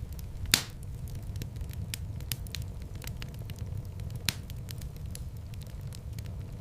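Wood fire in a fireplace crackling over a steady low rumble of flame, with two sharp pops, the louder about half a second in and another about four seconds in.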